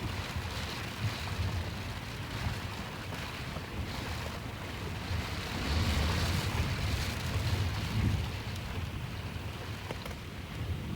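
Gusty wind from the outer bands of Hurricane Idalia, buffeting the microphone with a low rumble over a steady rush. The gusts get stronger about halfway through.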